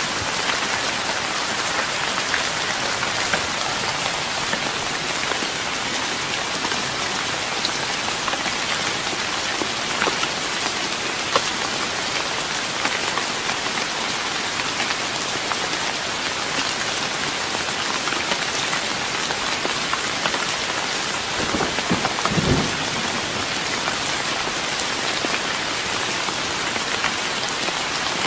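Steady, dense rain pattering on a wooden deck. A brief low rumble comes in about three-quarters of the way through.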